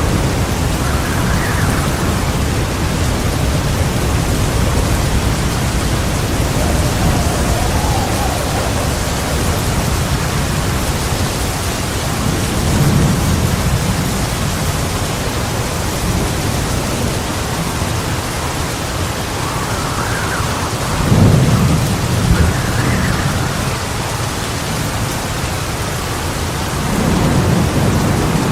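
Heavy rain falling steadily with rolling thunder, the loudest rumble about three-quarters of the way through and another starting near the end.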